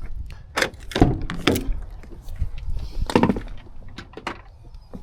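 A handful of sharp wooden knocks and clatters, as of a wooden object being handled and set down. The loudest knock comes about a second in, and another cluster follows about three seconds in.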